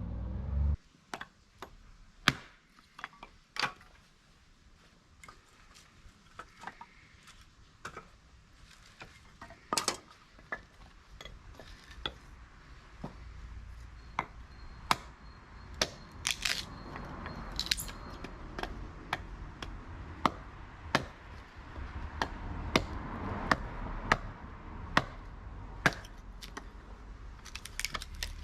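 Wood fire crackling: irregular sharp snaps and pops, sometimes a couple a second, over a soft crackling hiss that builds toward the end as the fire catches.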